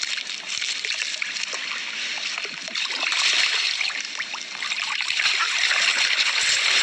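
Running water trickling and splashing, a steady rush that swells louder about halfway through and again near the end.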